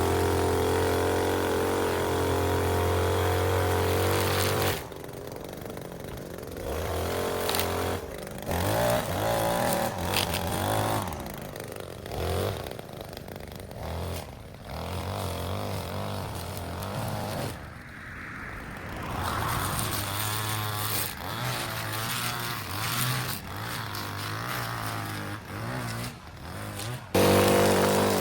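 Small petrol engine of a push lawn mower running and cutting wet grass. Its note is steady and loud for the first few seconds, then quieter and shifting in pitch, with abrupt jumps in level, and loud again near the end.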